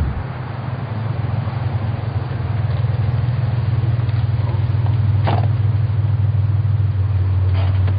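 Land Rover Defender's engine running with a steady low drone as the vehicle drives, with a few brief knocks over it in the second half.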